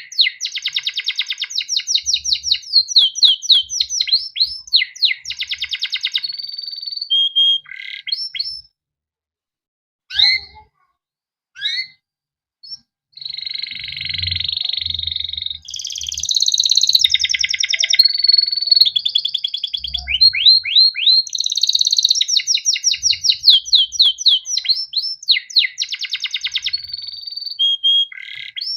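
Male canary singing a long song of rapid repeated chirps and rolling trills, breaking off about a third of the way in with only a few short notes, then resuming with buzzy rolls and fast chirp runs.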